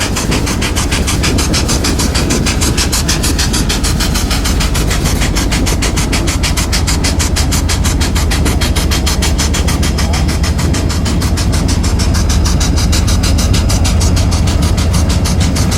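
Diesel freight train passing, led by an EMD SD70M locomotive: a steady, loud low engine rumble with a fast, even pulsing, growing slightly louder toward the end.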